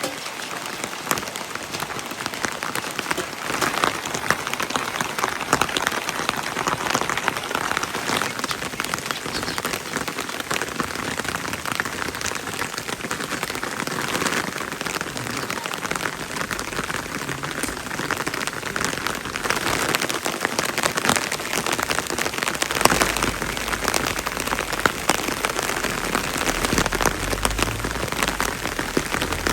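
Steady heavy rain: a dense patter of many drops. A low rumble comes in about two-thirds of the way through.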